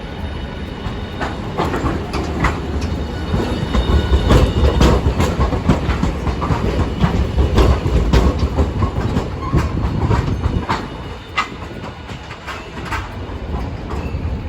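Hiroden streetcar running over rail joints and points, its wheels clacking repeatedly over a low rumble, loudest a few seconds in and easing off toward the end.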